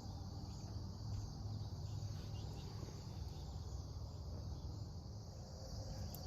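Steady high-pitched chorus of crickets, with a steady low hum underneath and a few faint clicks.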